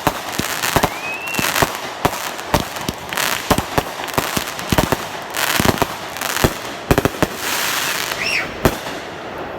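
Fireworks going off: many sharp bangs and pops at irregular intervals, several a second, with hissing and crackling between them and a couple of short whistles.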